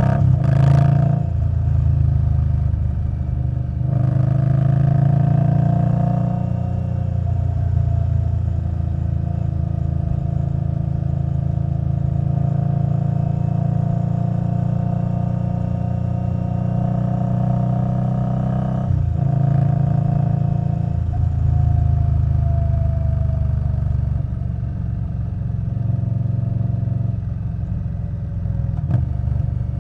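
2021 Indian Scout Bobber Twenty's V-twin engine through Vance & Hines Twin Slash exhaust, running steadily at road speed. Its pitch rises slowly in places as it accelerates, with short breaks in the note near the start and again about two-thirds of the way in.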